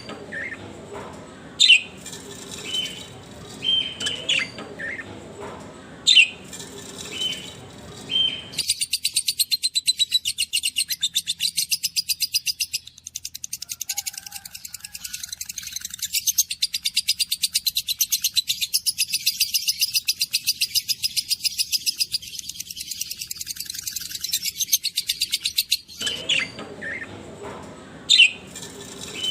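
Lovebirds chirping: scattered sharp chirps at first, then, after about nine seconds, a long stretch of fast, even, high-pitched chattering, and single chirps again near the end.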